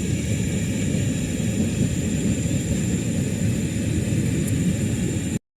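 Steady low rumble with a faint, thin, steady high tone above it. It cuts out abruptly for a moment near the end.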